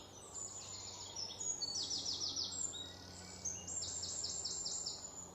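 A bird singing: quick runs of short, high notes, one run about two seconds in and another about four seconds in.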